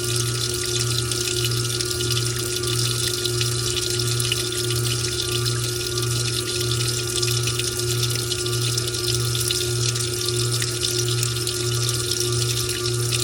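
Washing machine washing a load of towels: water splashing and running in the drum over a low motor hum that pulses about twice a second.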